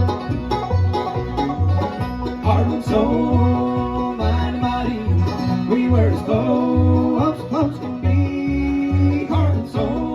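Acoustic bluegrass band playing an instrumental break: banjo and guitar picking over a steady bass beat of about two notes a second, with some sliding lead notes in the middle.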